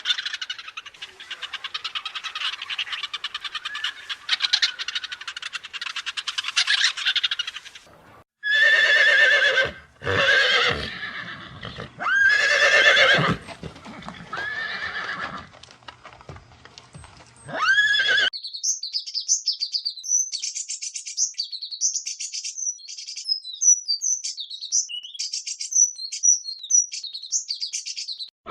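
A run of animal calls. First comes about eight seconds of dense, rapid high chattering. Then several loud, drawn-out pitched calls come one after another. Then, for the last ten seconds, quick high chirps.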